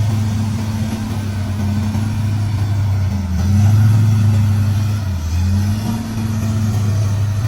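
Heavy engine running steadily at a low pitch, with its pitch dipping briefly twice around the middle; a vehicle engine sound effect laid over a toy bulldozer.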